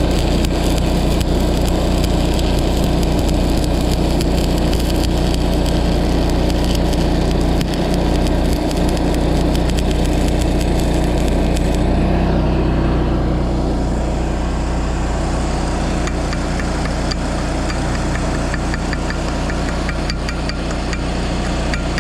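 Engine-driven welding machine running steadily, with a stick-welding arc crackling over it; the arc stops about halfway through and the engine keeps running.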